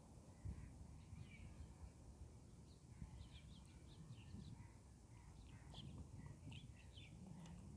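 Faint chirping of small birds, a run of short high chirps through the middle, over a low rumble of wind and microphone noise.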